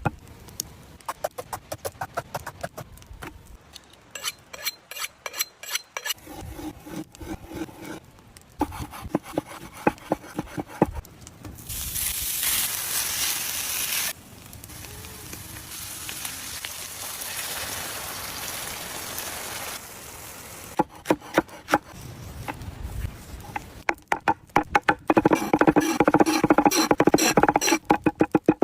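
Cooking sounds: runs of quick knife taps on a board, and a hissing sizzle of food frying that is loudest for about two seconds near the middle and then carries on more faintly.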